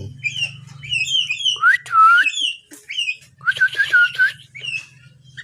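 A tame yellow-vented bulbul calling: quick series of short falling chirps, with two louder bubbly song phrases about two and four seconds in. A steady low hum runs underneath.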